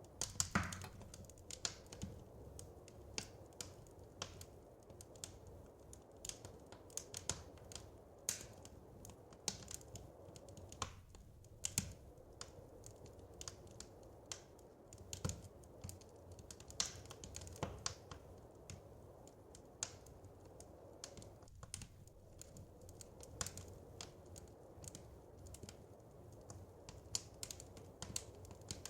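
Wood fire crackling in a fireplace: irregular small pops and snaps, a few louder ones, over a faint steady low hiss.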